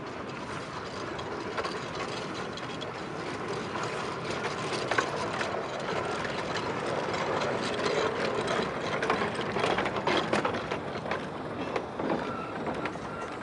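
Miniature railway train running on the track: wheels and carriages clattering and clicking over the rails, getting louder through the middle.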